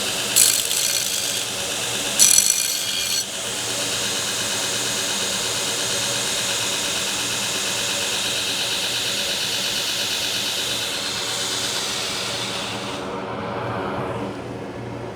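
A power grinder running steadily with a high hiss. Steel is pressed to it twice, in short, louder bursts about half a second and two seconds in, as the forged knife blade is ground. About thirteen seconds in the high hiss cuts out, leaving a lower hum as the grinder shuts down.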